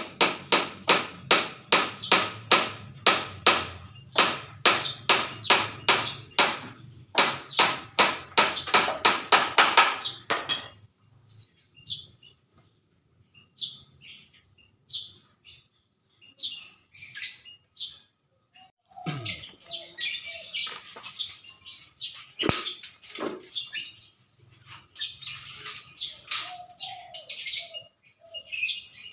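Small birds chirping: a fast run of sharp, repeated chirps, about three a second, for roughly the first ten seconds, then scattered separate calls and chirps.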